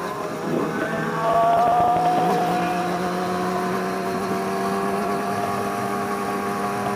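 Motorcycle engine running steadily under way, its pitch holding nearly level and getting louder for a moment about a second in.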